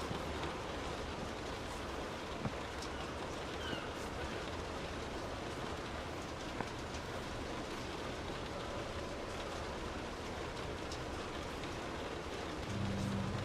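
Steady rain falling, an even hiss with scattered individual drops ticking. A low rumble rises briefly near the end.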